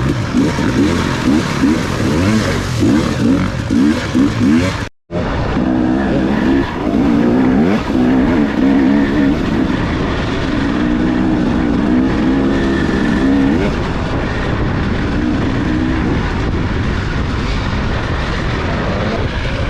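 Dirt bike engine revving hard, its pitch rising and falling quickly with the throttle. The sound cuts out for a moment about five seconds in, then the engine runs on at a steadier, wavering pitch.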